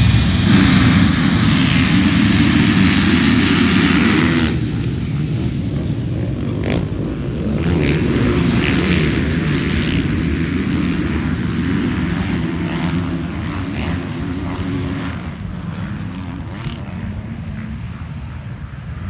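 Motocross bikes running hard, loudest for the first few seconds, then a lower, steadier engine note with scattered sharp knocks, easing off later on.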